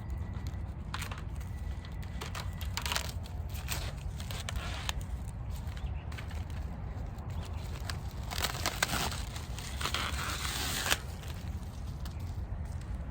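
Hardware cloth wire mesh being handled and dragged over the ground: scattered clicks and short scrapes, with a longer, louder scraping rustle from about eight to eleven seconds in. A steady low rumble runs underneath.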